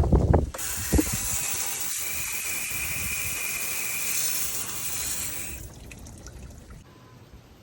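Water running or gushing steadily for about five seconds, then stopping. A short knock comes about a second in.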